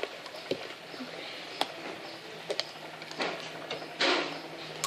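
Scattered small crunches and clicks of crispy potato snack sticks being eaten, with a short hissing rush about four seconds in.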